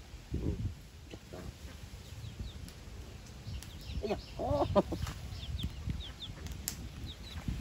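Birds calling: a few short pitched calls about four to five seconds in, and brief high chirps scattered through, over a low steady rumble.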